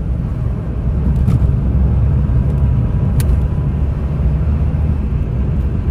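Heavy road traffic: a steady low rumble of truck engines running in a long queue, with one short click about three seconds in.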